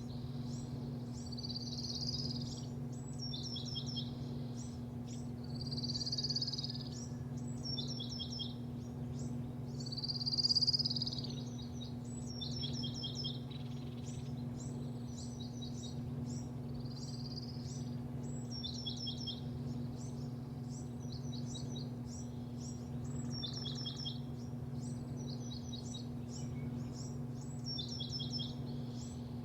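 Small birds chirping in quick runs of short high notes, over a steady low machine hum. There are a few soft hissing sweeps in the first half.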